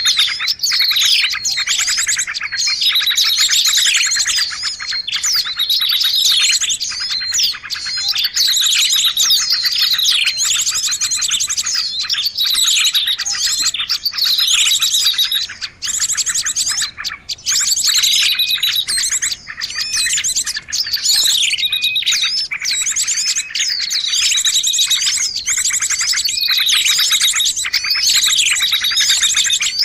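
Noisy bird-lure recording: many small birds chirping and calling at once in a dense chorus of overlapping high chirps, rapid trills and downward-sweeping notes.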